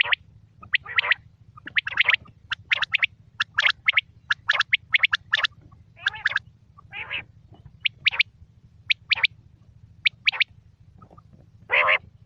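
Quail calling over and over: short, sharp notes in quick groups of two or three, about once a second, over a steady low hum.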